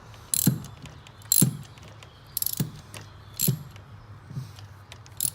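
Hand ratchet with a 10 mm socket tightening an ignition coil bolt. Its pawl clicks in short bursts about once a second as the handle is swung back between strokes.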